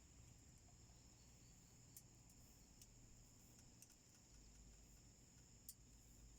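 A small wood fire burning quietly in a homemade wood stove, giving a few sharp crackles. A steady, high chirring of crickets or other insects continues underneath.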